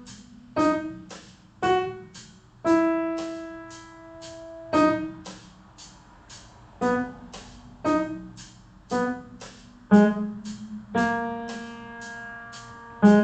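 Piano playing a slow single-note melody, roughly one note a second, with two notes held longer, over a steady ticking beat about three times a second.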